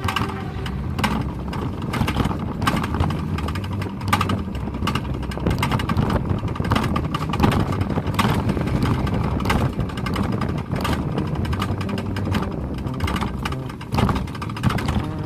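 Summer toboggan (alpine coaster) sled running down its track: a continuous low rumble with rapid, irregular clattering and knocking.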